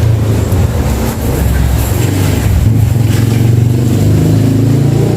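BMW R nineT's boxer-twin engine running steadily, with a slight wavering in pitch.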